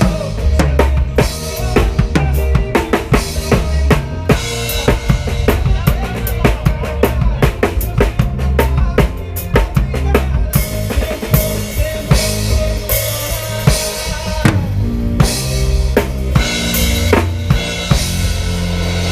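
Live band playing an instrumental passage: a drum kit with kick drum, snare and rimshots hit in quick, busy strokes over a bass line, thinning out about halfway through.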